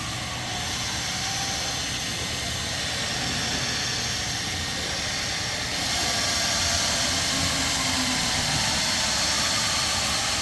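Electric paint polisher running against car paint, a steady whirring hiss that grows a little louder about six seconds in, working bird-dropping etching out of the clear coat.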